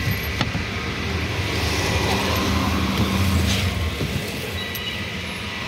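Steady low mechanical hum of a running vehicle engine, with a light click or two near the start.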